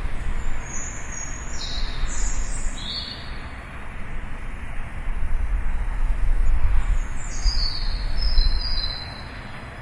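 Birds chirping in two short bursts of high calls that step downward in pitch, one in the first three seconds and another near the end, over a steady low rumble.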